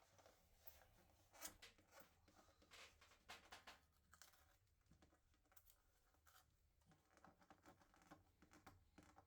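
Near silence with faint, scattered scratching and small clicks, like light handling or scraping at a work surface.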